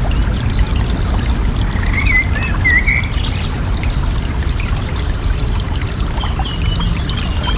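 Water trickling and splashing steadily, with a songbird's short warbled phrases about two seconds in and again near the end.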